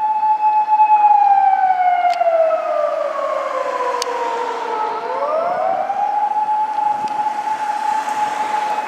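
A siren holding a steady tone, then sliding down in pitch for about four seconds and rising back to its first pitch about five seconds in, where it holds again.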